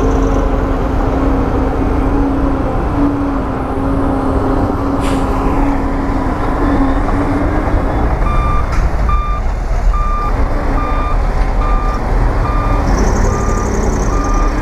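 Heavy diesel construction machinery running loudly, with a steady drone for the first half; about eight seconds in, a reversing alarm starts beeping about one and a half times a second as a machine backs up.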